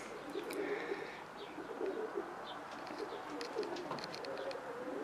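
Racing pigeons cooing softly, low wavering coos repeating throughout, with a few faint ticks.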